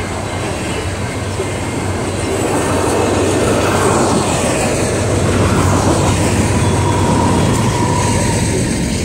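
Loaded coal hopper cars rolling past with a steady rumble and wheel clatter. The rear diesel locomotive comes up and passes near the end, and the sound grows louder as it approaches.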